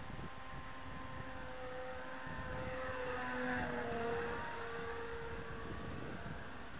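Twin electric brushless motors and propellers of a radio-controlled model Cessna 337 whining as it flies past, louder about halfway through, then dropping slightly in pitch as it moves away. Wind buffets the microphone underneath.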